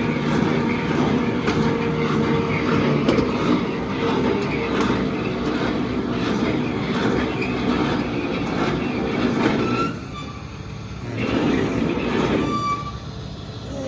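A vehicle running with a steady rumble and rattle that drops off about ten seconds in, then briefly returns.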